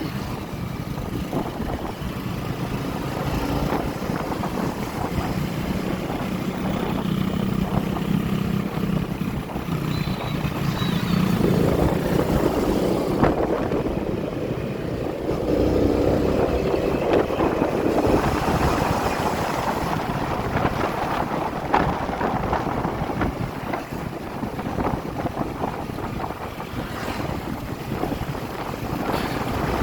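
Motorcycle engine running steadily on the road while riding, with wind buffeting the microphone and road noise.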